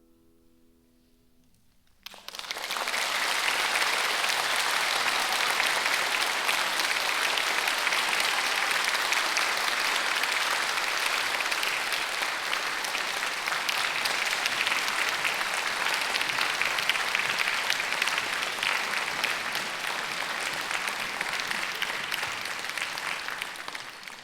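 The last sustained piano notes die away, then about two seconds in an audience breaks into steady applause, which fades near the end.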